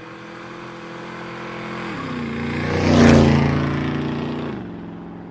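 Motorcycle engine passing by: it grows louder to a peak about two seconds in, then fades away, its pitch dropping.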